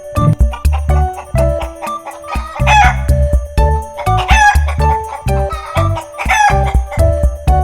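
A rooster crowing three times, each call short, over background music with a steady beat.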